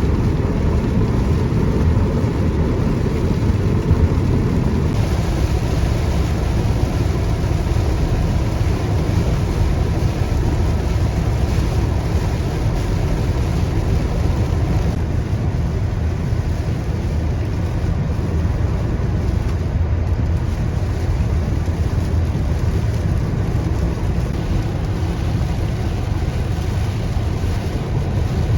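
A car driving steadily, its low road and engine rumble running unbroken, with wind noise over it.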